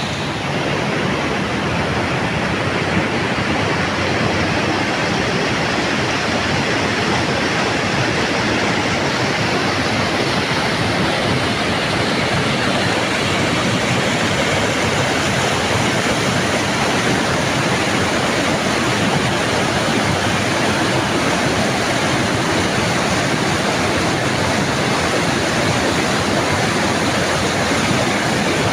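Fast-flowing river rushing steadily over rapids, a loud, even roar of water.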